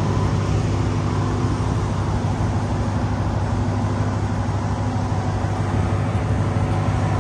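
Jeep Grand Cherokee Trackhawk's supercharged 6.2-litre V8 idling steadily, low-pitched and even.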